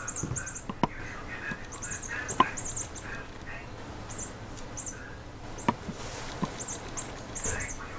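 Small bird chirping in quick clusters of very high, rapid notes, with softer chattering between them and a few sharp clicks.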